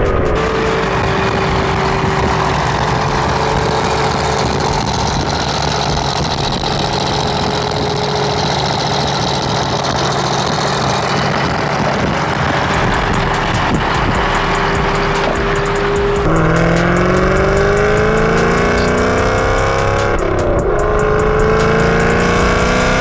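Chevrolet Camaro ZL1's supercharged V8 running under steady load, then accelerating hard from about two-thirds of the way in, its pitch rising, dipping briefly at a gear change, and climbing again.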